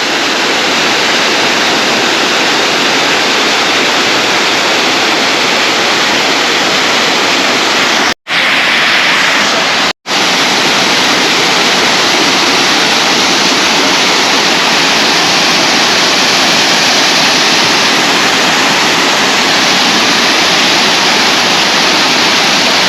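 Waterfall rushing loudly and steadily close by, with two brief gaps in the sound about 8 and 10 seconds in.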